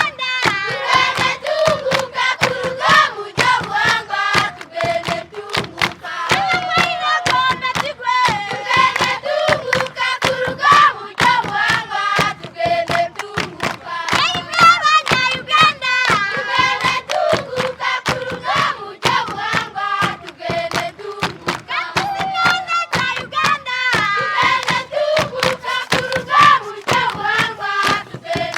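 A group of voices singing together over fast, steady rhythmic hand clapping.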